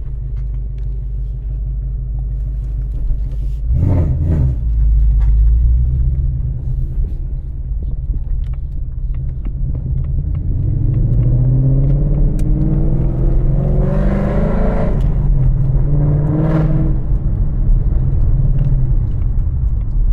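Ford Mustang GT's 5.0 V8 running through catless longtube headers, a loud, steady low exhaust note. There is a short rev about four seconds in, then the car pulls away with the pitch climbing for several seconds, dropping, and rising again briefly near the end.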